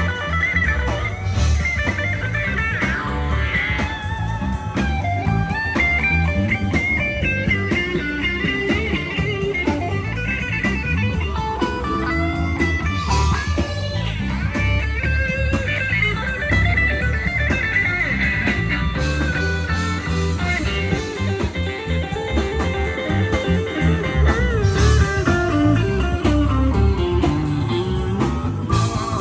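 Electric blues band playing, with an electric guitar's lead lines bending in pitch over bass and drums.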